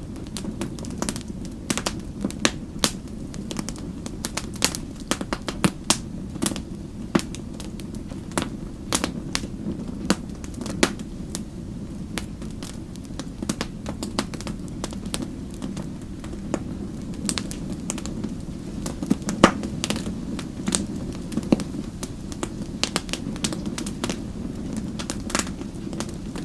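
Fire crackling, with frequent sharp, irregular pops and snaps over a steady low rumble of the flames.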